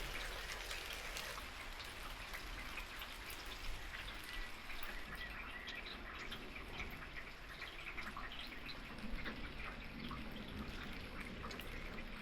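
Rain falling and dripping, with small birds chirping here and there.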